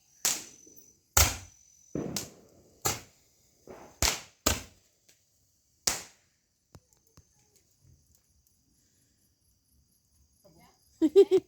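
A series of about seven sharp, irregular knocks or bangs over the first six seconds, then a faint high chirring like insects.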